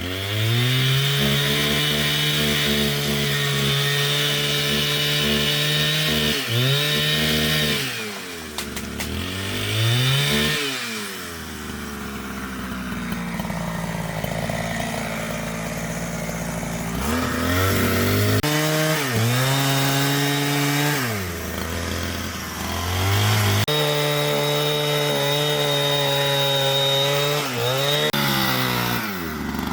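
Two-stroke chainsaw held at full throttle, cutting wood. It drops back and revs up again twice about a third of the way in, runs low for several seconds in the middle, then goes back to full revs in three runs.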